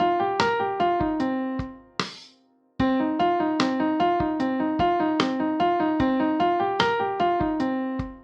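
Piano-sounding keyboard playing a run of quick repeated chords, about three to four a second. It breaks off with a short pause about two seconds in, then picks up the same pattern again.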